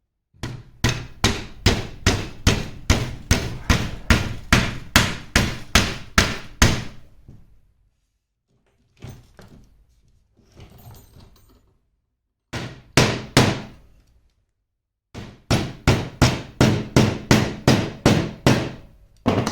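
Hammer blows in a steady run, about two or three a second, in three spells with short pauses between them.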